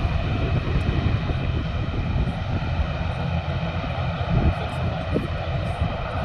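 Jet airliner engines running steadily: a continuous low rumble with a whine held at a fixed pitch.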